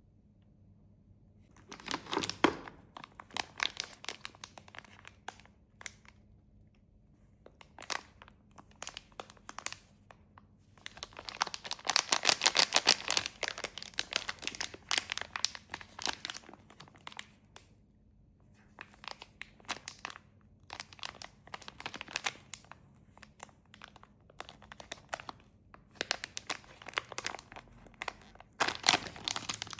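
Plastic snack wrappers being crinkled and torn open by hand, in bursts of crackling with short pauses between them. The longest and densest stretch comes in the middle.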